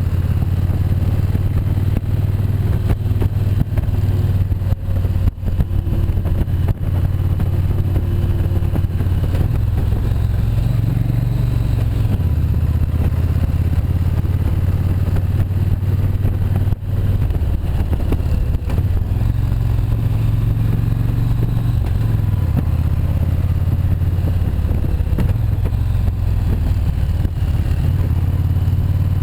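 Motorcycle engine running under way, its low note stepping up and down several times as the throttle and speed change.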